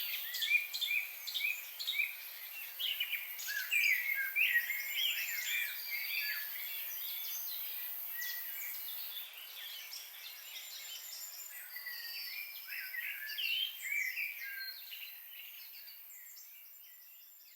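Several small songbirds chirping and singing over one another in quick, overlapping phrases, over a steady high-pitched hiss. The whole sound fades out near the end.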